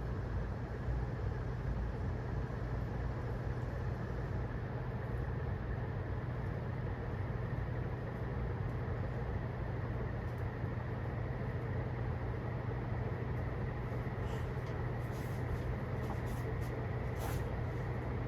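2001 HRS industrial ceiling fan with three curved metal blades running steadily at a fast medium speed: an even rush of air over a low hum, with a few faint ticks near the end.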